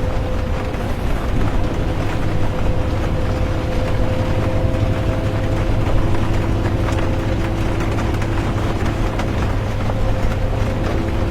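Interior of a bus driving, with a steady low engine and road rumble and a constant drivetrain hum. Rain sounds faintly against the bus.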